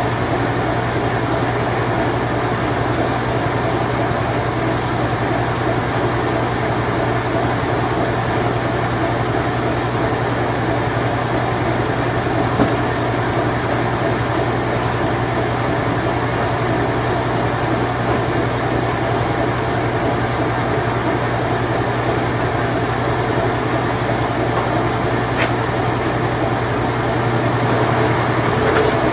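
Late-1980s Whirlpool Imperial Clean Touch washing machine running its spin cycle: a steady motor hum under a constant rushing whir, growing slightly louder near the end.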